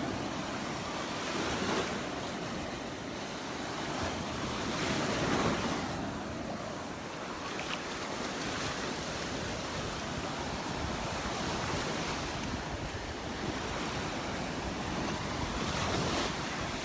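Gulf of Mexico surf washing ashore, swelling and falling every few seconds, with some wind buffeting the microphone.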